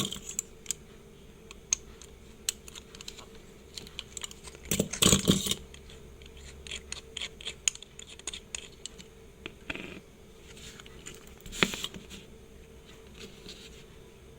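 Small hand tools clicking and scraping against a Seiko 5 automatic wristwatch and its parts during repair, with a short louder clatter about five seconds in and a sharp knock near twelve seconds.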